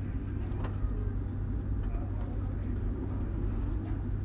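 Steady low rumble of the K117 passenger train, with a few faint clicks.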